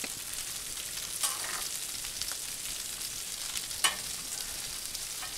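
Food sizzling steadily on a hot Blackstone flat-top griddle, with a metal spatula stirring and scraping through a skillet of mushrooms, onions and bacon; two short scrapes stand out, about a second in and near four seconds.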